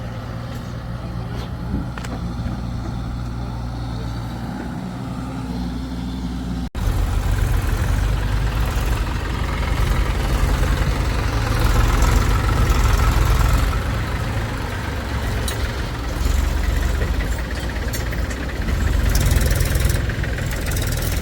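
Heavy diesel machinery engine running: steady at first, then after a brief break about seven seconds in it is louder and rougher, as under load.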